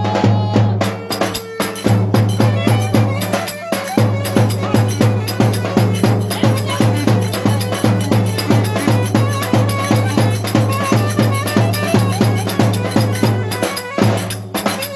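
Live band music with a fast, even percussion beat over a pulsing low bass line; the beat briefly drops out just before the end.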